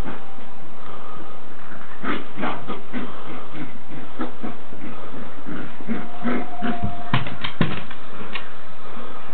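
Several puppies growling in a stretch of short, irregular bursts as they play-fight and tug over a sock.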